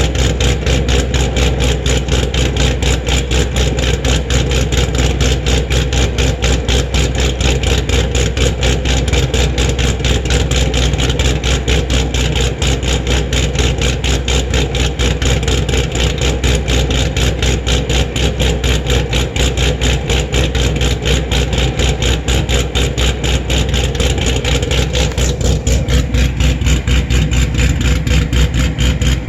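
2014 Camaro SS's 416-cubic-inch LS3 V8 idling steadily while warming up after a cold start, with an even, rapid exhaust pulse.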